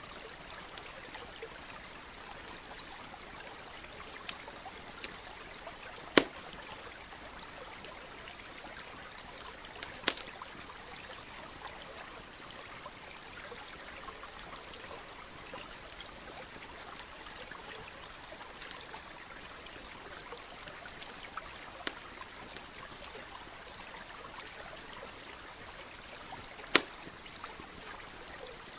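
Steady rush of a stream, with a campfire crackling over it in scattered sharp clicks and three louder pops, about 6, 10 and 27 seconds in.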